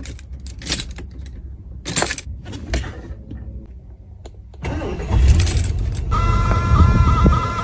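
Clicks and a jangle like keys being handled, then a car engine starts about two-thirds of the way in and runs with a loud low rumble, joined a second or so later by a steady high whine.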